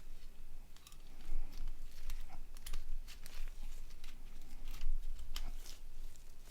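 Irregular small clicks and brief light scrapes of a mobile phone's small parts being handled and pried apart during disassembly.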